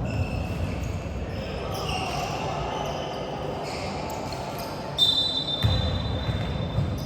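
Indoor basketball game: a ball bouncing on the court with players' voices echoing in the gym, then a referee's whistle blown once about five seconds in, held for over a second.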